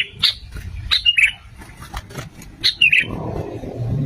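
Sooty-headed bulbul calling: short clusters of quick, bubbly chirps, with a few sharp clicks between them.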